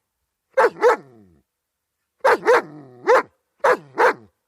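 German Shepherd dog barking: a quick pair of loud barks, then after about a second's pause a run of three, then two more near the end.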